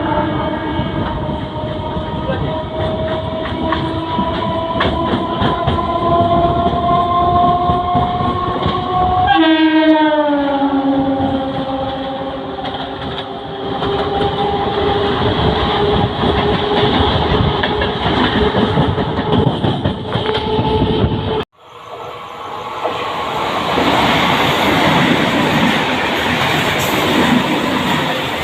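Indian Railways EMU passenger train sounding a held two-tone horn over the rumble of wheels on rail; the horn's pitch drops sharply as the train passes, then fades. After a sudden break, the steady clatter of train wheels passing.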